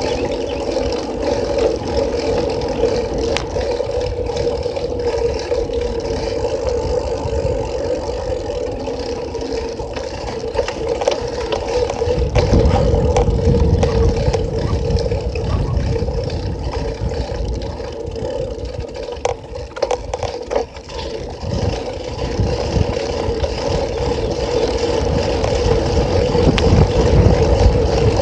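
Riding noise picked up by a phone zip-tied to a moving bicycle: wind buffeting and road rumble over a steady hum. The rumble grows heavier about halfway through, with a few brief rattles a little after that.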